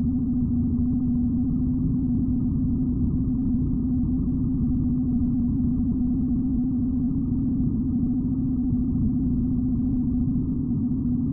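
BMW R75's 745 cc flat-twin engine running at a steady speed on the move, a continuous even drone with no change in revs.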